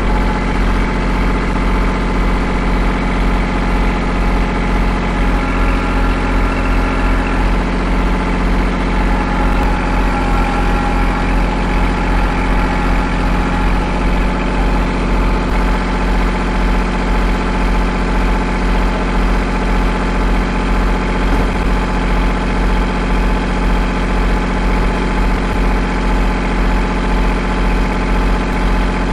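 Kubota L2501 tractor's three-cylinder diesel engine running at a steady speed.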